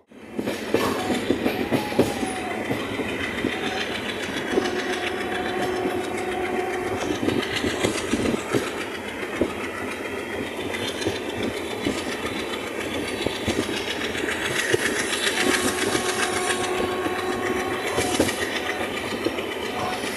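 Express passenger train running at speed, heard from inside the coach by the window: a steady rumble with the wheels clicking and clattering over the rail joints. A held tone sounds twice for a couple of seconds each, partly covered by the running noise.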